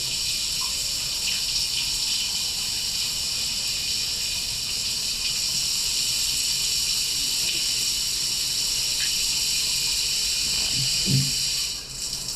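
Spa shower running: a steady spray of water hissing, which cuts off abruptly near the end.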